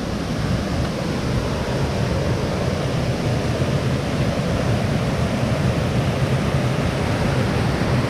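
Waterfall and creek water rushing steadily over rock ledges, an even roar with no breaks.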